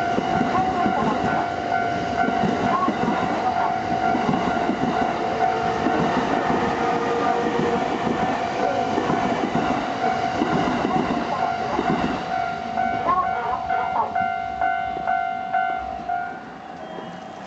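Yokosuka Line train running over a level crossing inside a station, with wheels clattering on the rails. A steady warning tone from the crossing alarm rings throughout and stops shortly before the end as the train clears.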